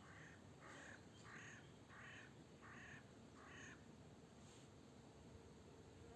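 A bird calling in a series of about six harsh, evenly spaced calls, roughly one and a half a second, that stop about four seconds in; faint.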